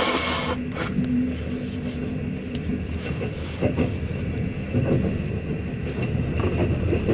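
Running noise of a moving passenger train heard from inside a sleeper carriage: a steady low rumble from the wheels and track, with a faint steady high tone above it.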